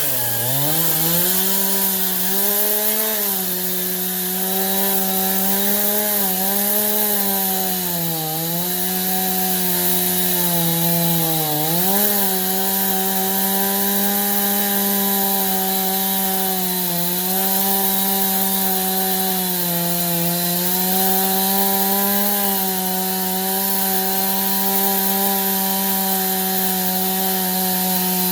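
Stihl two-stroke chainsaw in an Alaskan mill, running at full throttle through a pine log in a lengthwise ripping cut. The engine note holds steady and high, with its pitch dipping briefly about half a dozen times.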